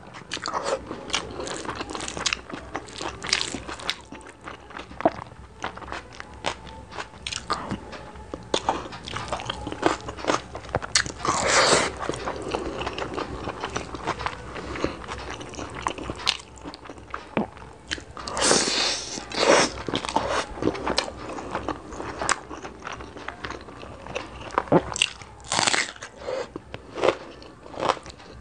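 Close-miked chewing and wet mouth sounds of a person eating rice pulao and meat curry by hand: a steady run of smacks and clicks, with louder clusters of bites a little before halfway, about two-thirds of the way in and near the end.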